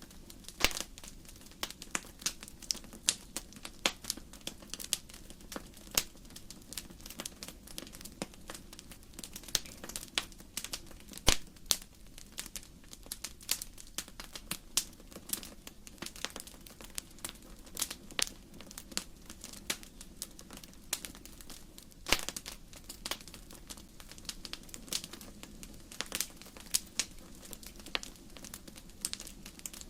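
Firewood burning in a fireplace, crackling with irregular sharp pops, several a second, over a steady low rush.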